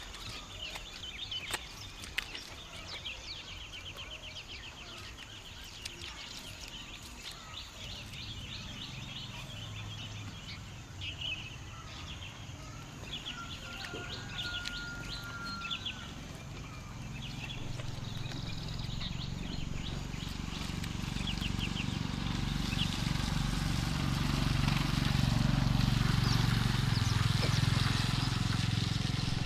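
Outdoor ambience with rapid high chirps and trills through the first half, then a low rumble with a hiss that swells steadily over the last ten seconds.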